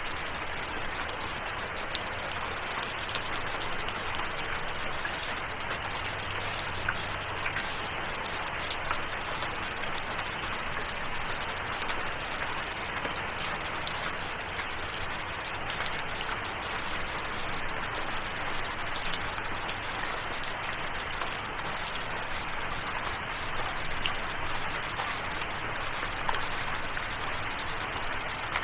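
Steady rain falling, an even hiss with many individual drops ticking on a surface throughout.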